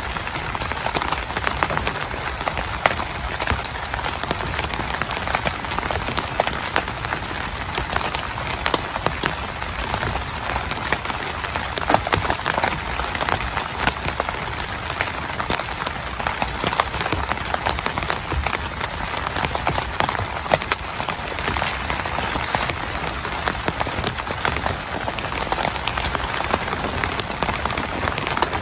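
Heavy rain beating steadily on a tent, a dense hiss crowded with many separate sharp drop hits.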